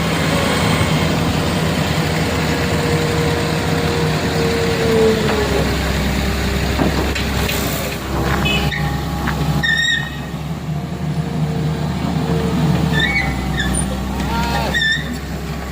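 Heavy truck's engine running steadily under load, with a brief air hiss about halfway through and short squeaks in the second half.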